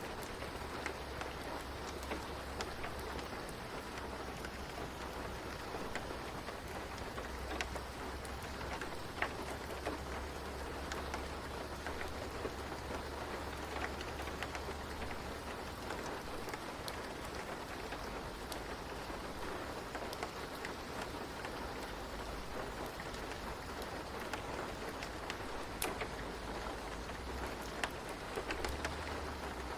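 Steady rain falling, an even wash of noise with scattered light ticks and a low rumble underneath.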